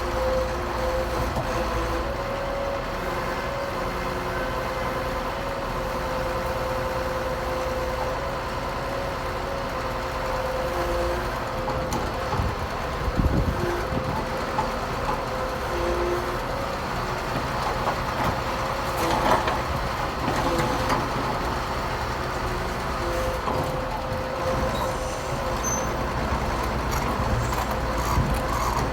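Excavators and dump trucks working: heavy diesel engines running steadily under a constant tone, with a few sharp knocks about halfway through and again a little later.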